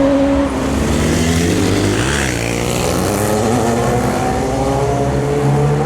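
Sport motorcycle engines revving: a high, held engine note drops off about half a second in, then several engines run together at lower revs, their pitch rising and falling.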